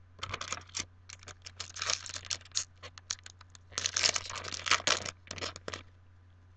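A foil trading-card booster pack being torn open and its wrapper crinkled, in a run of short ripping and crackling bursts that stop near the end.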